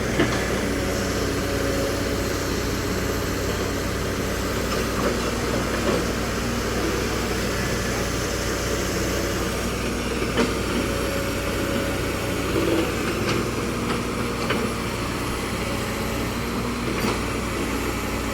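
Heavy road-repair machines running steadily: a low engine hum under a steady hiss, with a few faint knocks.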